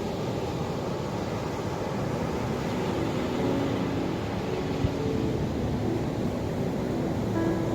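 Ocean waves washing steadily, a continuous rushing noise, with a faint low hum joining in about three seconds in and a single sharp click near the middle.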